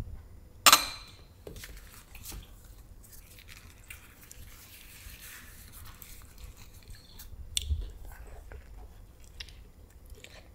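Chewing and crunching on chicharrones (fried pork rinds), with scattered small crunchy clicks. A single sharp, loud click with a brief ring comes about a second in.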